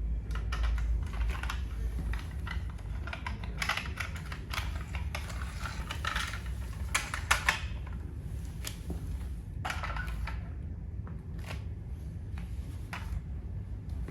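Plastic toy fire truck cracking and crunching under a stomping riding boot: irregular clusters of sharp clicks and cracks over a low rumble, loudest about seven seconds in.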